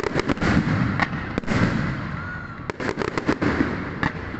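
Fireworks going off: rapid strings of sharp bangs and crackles in clusters, one just at the start and another about two-thirds of the way through, over a steady rumble of more distant bursts.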